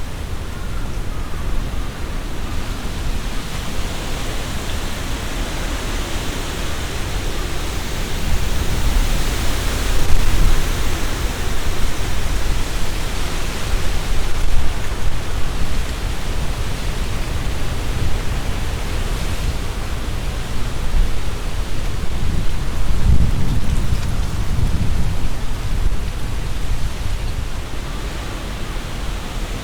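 Strong wind gusting through trees, the leaves rustling, with a heavy low rumble of wind buffeting the microphone. The gusts swell about a third of the way in, again around the middle, and once more about three-quarters through.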